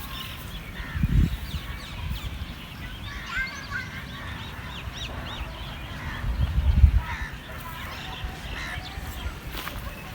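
Birds calling with many short, high chirps scattered throughout. Two low thuds break in, one about a second in and a louder one around seven seconds in.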